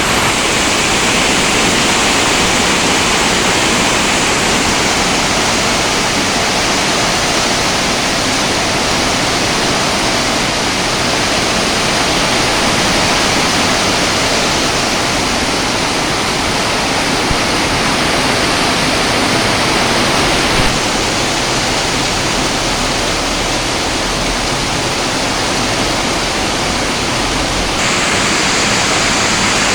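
Heavy rain falling, a steady loud hiss that changes slightly about two-thirds through and again near the end.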